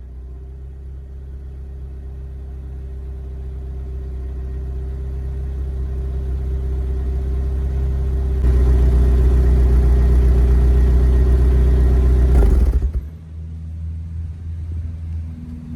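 Nissan S13 Silvia's SR20DE inline-four running at a steady speed, heard at the muffler. It grows gradually louder, jumps louder about eight seconds in, then drops off suddenly near the end to a quieter, steady running note.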